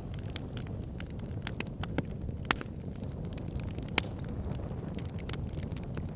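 Wood fire crackling in a fireplace: a steady low rumble of burning logs with many small crackles, and two louder pops about two and a half and four seconds in.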